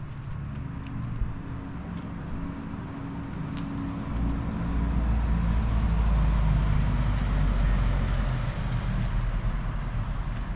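A motor vehicle's engine running with a low rumble and a steady hiss. It swells louder about four seconds in, then eases slightly near the end.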